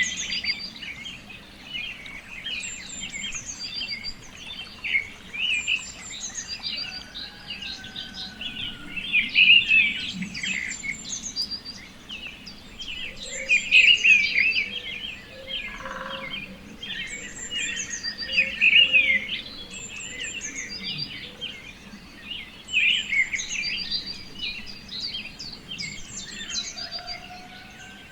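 Several songbirds chirping and twittering together in a dense chorus of short high notes, swelling into louder flurries every four to five seconds, with a few thin, longer whistled notes lower down.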